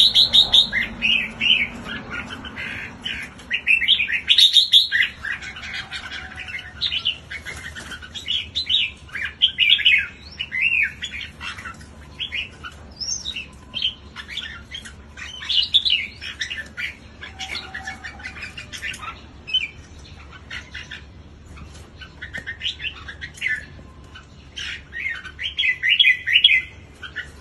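Red-whiskered bulbuls singing and calling: quick, bright chirping phrases coming one after another, busiest in the first ten seconds and again near the end.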